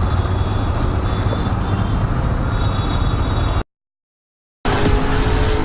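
Loud road-vehicle noise with a heavy low rumble, cut off abruptly about three and a half seconds in. After about a second of dead silence, a new loud sound starts near the end with a few steady tones.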